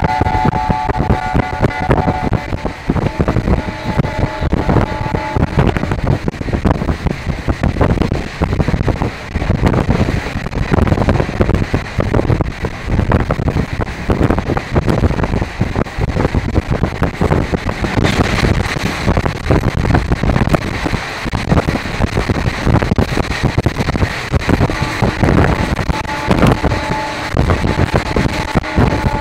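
Passenger train running along the track, a continuous loud rumble and clatter with wind buffeting the microphone. Held tones sound over it briefly at the start and again near the end.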